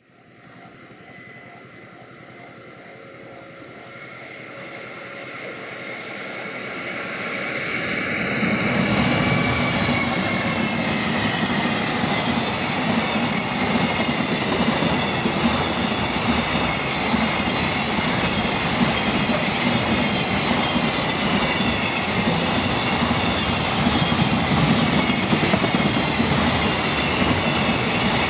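JR Freight EF210 electric locomotive hauling a container freight train: it approaches, growing steadily louder over the first eight seconds or so, then the train runs past close by with a steady loud rumble of wheels on the rails to the end.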